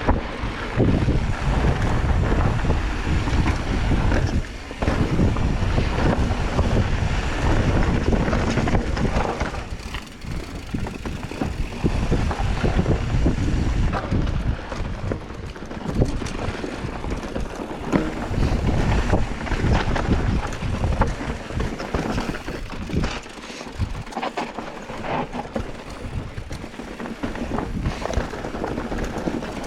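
Wind buffeting the microphone in gusts, a heavy low rumble that swells and eases, with scattered short knocks.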